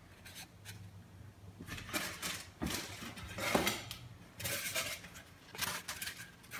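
Vinyl terrain tiles and foam risers being handled and set down on a glass tabletop: a string of separate taps, knocks and scrapes.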